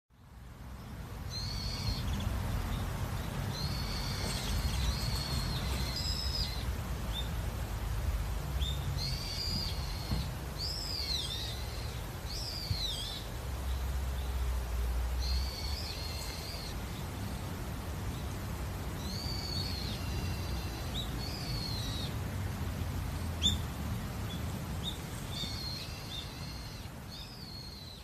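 Small songbirds singing in short, high chirping and warbling phrases every few seconds, over a steady low rumble. The sound fades in at the start and fades out near the end.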